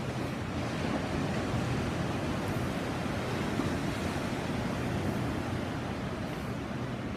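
Sea surf: waves breaking and washing ashore in a steady rush that swells a little in the middle.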